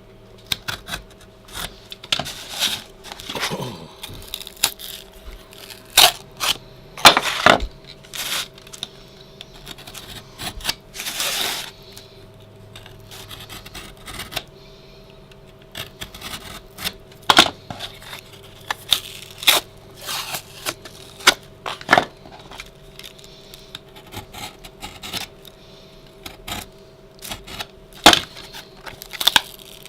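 Pieces of drywall gypsum core being snapped and broken off a sheetrock patch, with the face paper left attached: irregular sharp cracks and snaps with a few longer crumbly scrapes.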